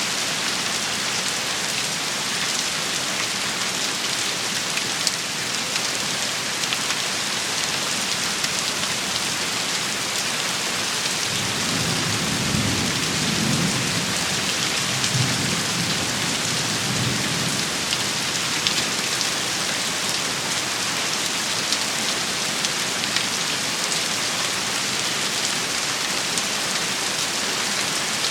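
Steady heavy rain falling, with a low rumble of thunder from about twelve to eighteen seconds in.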